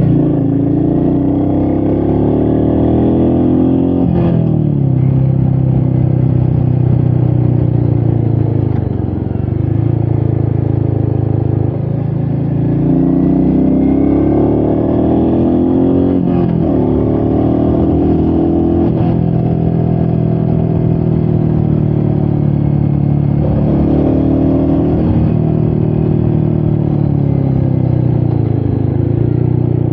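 Royal Enfield Meteor 350's single-cylinder engine running under the rider, its pitch climbing and then dropping back every few seconds as it accelerates, shifts and eases off, with wind noise on the microphone.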